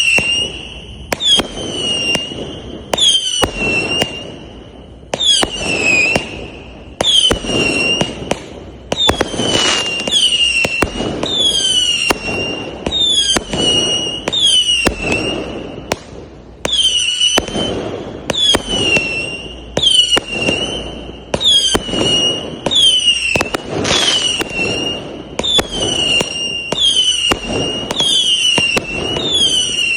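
A 100-shot 0.8-inch fireworks cake firing in steady succession, about one shot a second. Each shot is a sharp crack followed by a whistle that drops in pitch and then holds.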